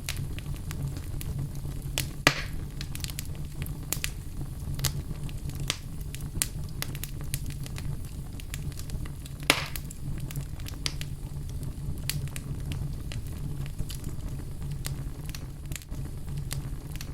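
Wood fire crackling in a fireplace: many small crackles over a steady low rumble, with two louder pops, one about two seconds in and one a little past the middle.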